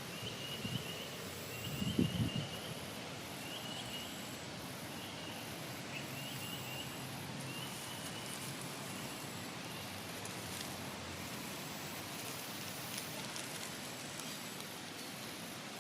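Outdoor ambience with a short, high chirp repeating about once a second that stops about halfway through, a low bump about two seconds in, and a few faint ticks near the end.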